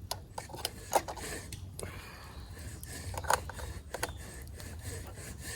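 Light clicks and taps with soft scraping, with sharper knocks about a second in and around three and a half and four seconds in.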